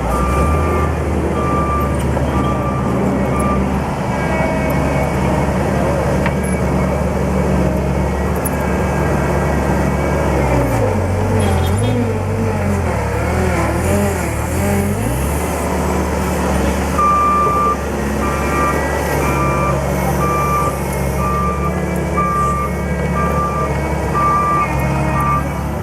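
JCB 205T skid steer loader's diesel engine running steadily, its note dropping and wavering for a few seconds midway, with the machine's reversing alarm beeping about once a second near the start and again through the last third.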